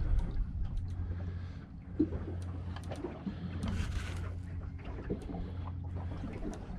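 Small boat's outboard motor running at a steady low idle, with scattered light knocks and a brief splash-like hiss about four seconds in.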